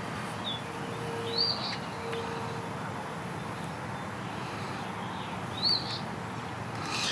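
A bird chirping a few times: short, high, arched chirps, the clearest about a second and a half in and again near the end, over steady outdoor background noise.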